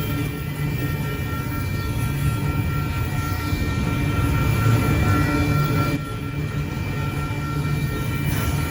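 A train rolling past a railroad crossing, with a steady low rumble from the cars going by.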